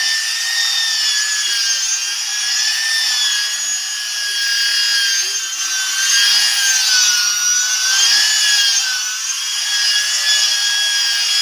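Handheld electric sanding tool running against a synthetic solid-surface (Solflex) tabletop: a steady high motor whine over an abrasive hiss, its pitch sagging a little midway and recovering.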